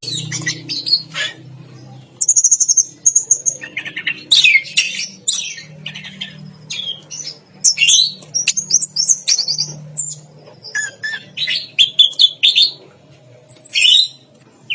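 Orange-headed thrush (anis merah) singing continuously, a fast, varied string of short high whistled and chattering phrases with brief pauses between them.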